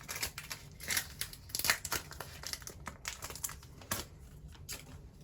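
A trading-card pack wrapper crinkling and tearing as it is opened, in irregular rustles, with a sharp click about four seconds in.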